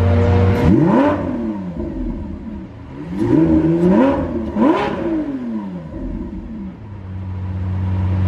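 Supercar engine being revved from idle in a series of short blips, each rising and falling in pitch, then settling back to a steady idle near the end.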